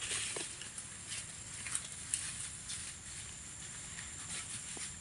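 Irregular crackling rustles of dry leaves and undergrowth being brushed and stepped on, over a steady high hiss.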